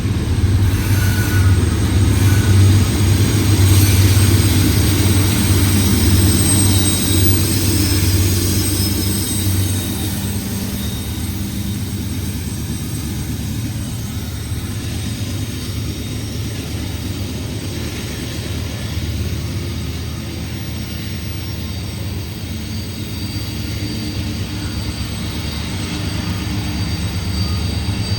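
Freight train's rear distributed-power diesel locomotive passing, its engine drone loudest in the first ten seconds or so, then easing off as it moves away with the train.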